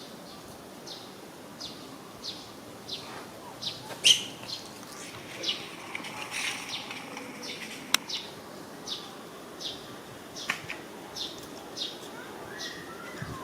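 A bird calling: a short, high chirp that falls in pitch, repeated about every three-quarters of a second, with one louder chirp about four seconds in. A single sharp click comes just before the two-thirds mark.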